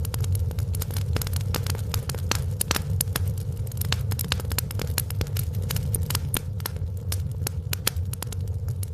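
Wood fire in a fireplace crackling, with frequent irregular snaps and pops over a steady low rumble.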